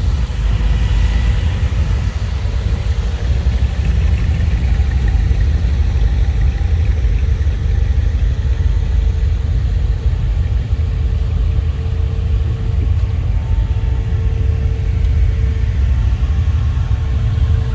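Car engines rumbling steadily at low speed as classic cars roll past, with a faint steady tone from about six seconds in.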